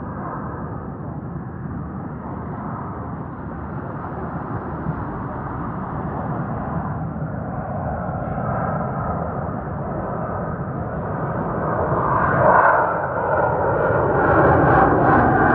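Roar of an RAF Eurofighter Typhoon's twin EJ200 jet engines during a display, growing steadily louder as the jet approaches and loudest near the end.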